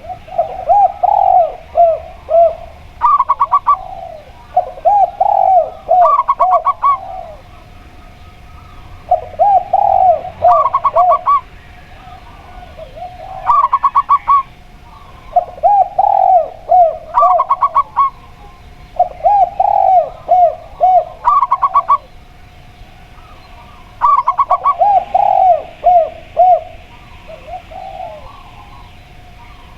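Zebra dove and spotted dove cooing back and forth, their calls repeating every few seconds. Short, fast pulsed bursts alternate with phrases of several rolling coo notes. A faint steady hum lies under the calls.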